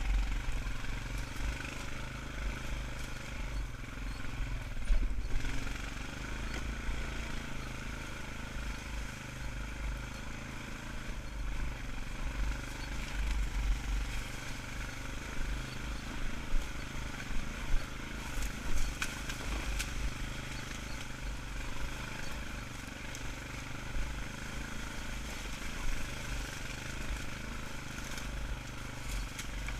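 ATV engine running steadily at a slow riding pace on a trail, with a few short rattles around the middle.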